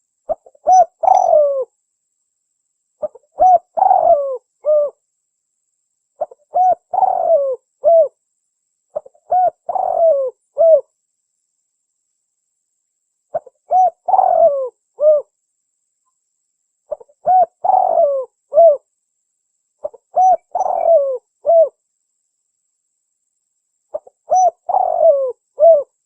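Spotted dove (tekukur) cooing: eight short phrases of several soft coos each, repeated about every three seconds. It is a lure call for drawing in wild doves.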